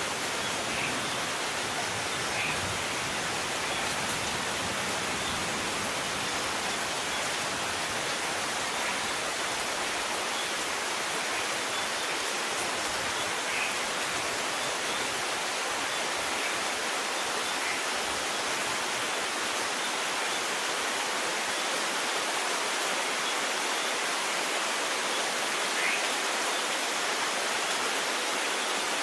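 Steady rain falling, an even hiss with scattered drops. A faint low rumble of distant thunder fades out over the first ten seconds or so.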